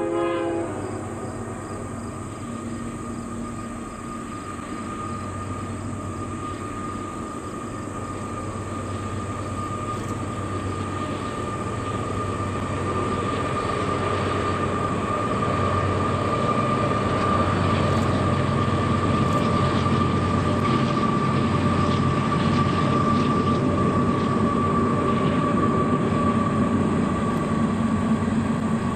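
Union Pacific train approaching and growing steadily louder: locomotive rumble and wheel noise with a steady high-pitched whine, after the tail of a horn blast in the first second.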